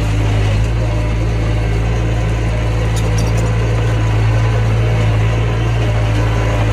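Mini bulldozer's diesel engine running at a steady, even speed, with a few faint clicks about three seconds in.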